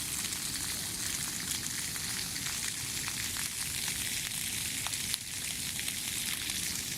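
Water spraying steadily from a dog undercarriage wash, with a few faint splashes.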